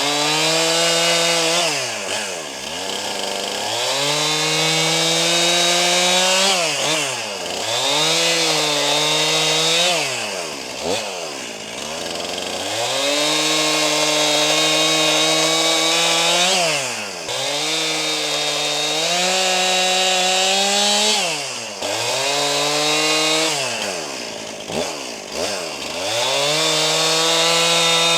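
Brand-new Stihl MS261 C 50 cc two-stroke chainsaw, still being broken in, running at high revs while cutting wood. About ten times the revs fall sharply toward idle and climb straight back up as the throttle is let off and squeezed again between cuts.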